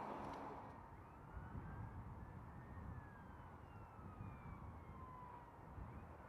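A distant siren wailing faintly, its pitch rising slowly and then falling, over a low rumble of background noise.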